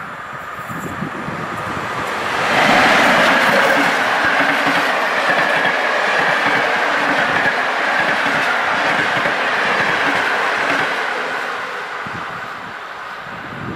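Passenger train hauled by an electric locomotive passing at speed. It grows louder as it approaches, jumps up as the locomotive draws level about two and a half seconds in, then the coaches roll by with a steady high tone that sinks slightly in pitch, and it fades near the end as the last coach moves away.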